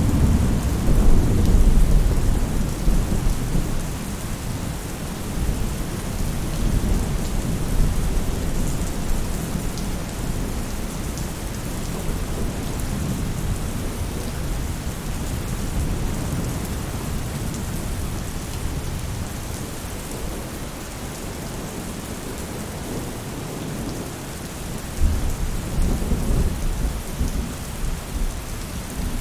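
Rain falling steadily on a roof, a continuous hiss, with low rolling thunder swelling up in the first few seconds and again near the end.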